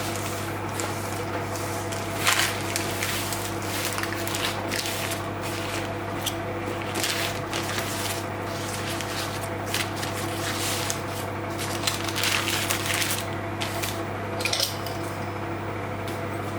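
Kitchen work sounds: scattered clinks, taps and scrapes of dishes and utensils over a steady low appliance hum.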